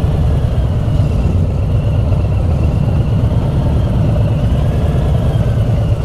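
Steady low rumble of vehicle engines idling and creeping along in slow, crowded street traffic.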